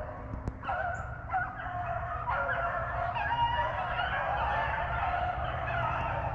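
A pack of rabbit hounds baying together, several overlapping drawn-out voices: the dogs are giving tongue while running a rabbit's trail.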